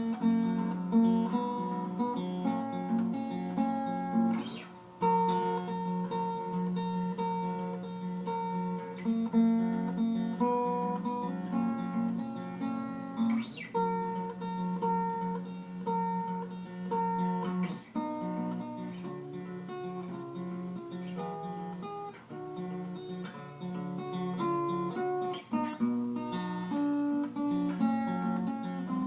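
Solo acoustic guitar playing a tune: a melody of changing notes over a steady low repeated note, with no singing.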